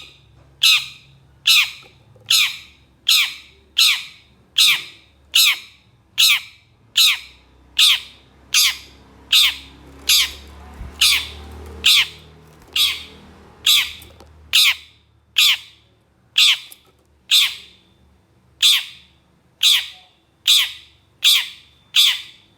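Long-tailed shrike (cendet) giving a long run of harsh, rough calls, about one a second at an even pace, each a short scratchy note that drops in pitch.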